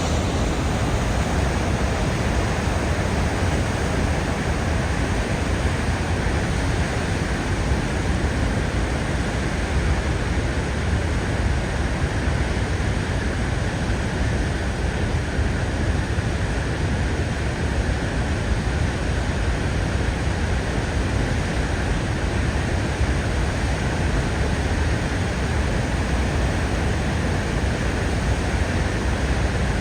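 Steady, unbroken rush of water from Niagara Falls, heaviest in the low end.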